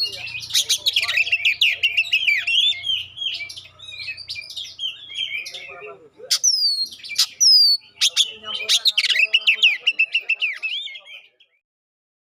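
Oriental magpie-robin (kacer) singing a fast, varied song of chirps and whistles, broken by a few loud, sharp falling whistle notes; the song stops near the end.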